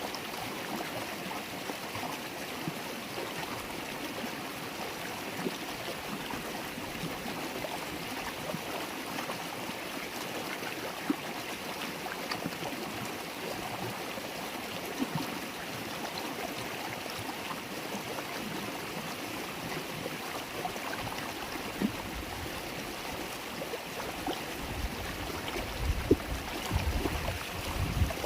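River water flowing and babbling steadily, with small splashes scattered through it. A low rumble joins in near the end.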